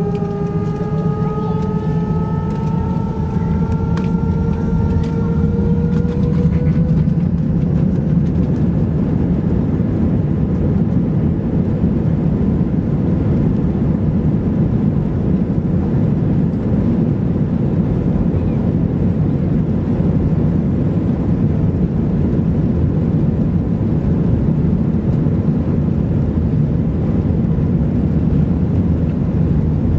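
Airbus A320's twin jet engines running at high power during takeoff: a loud steady rumbling noise, with a rising whine over the first several seconds that fades out.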